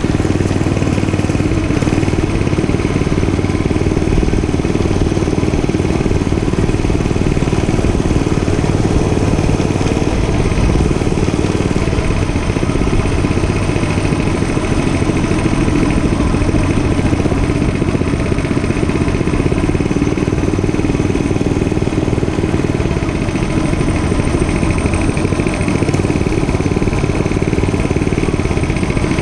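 Dirt bike engine running steadily at an even pitch, with no marked revving or shifting.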